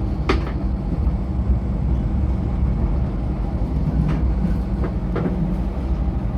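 MTR Light Rail train running along the track, a steady low rumble with a few sharp clicks from the wheels and track.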